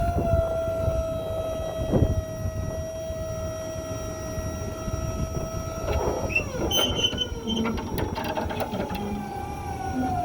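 2008 Freightliner M2 box truck's diesel engine running, with a steady whine over a low rumble; about six seconds in the whine drops and settles at a new, slowly falling pitch, with a few clicks after that.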